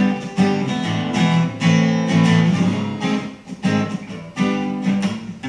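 Acoustic guitar strummed in a folk song's instrumental break between vocal lines, chords rhythmically strummed.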